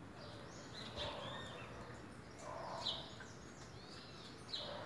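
Faint birdsong: small birds giving short, high chirps every second or so over a low, steady outdoor background noise.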